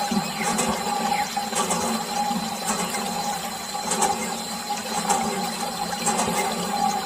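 Small DC motor water pump on a toy tractor running steadily, humming while it pushes water out, with a light regular ticking about once a second.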